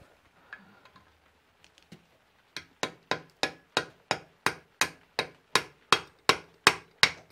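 Hammer tapping steadily, about three blows a second and growing louder, starting about two and a half seconds in, driving an engine mounting bolt through the motorcycle frame.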